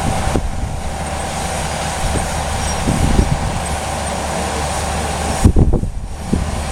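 A steady mechanical rumble with a constant hum, broken by a few knocks, loudest about five and a half seconds in.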